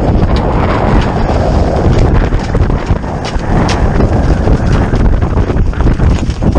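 Strong wind buffeting the microphone on a sailboat, a loud gusting rush with a few sharp ticks among it.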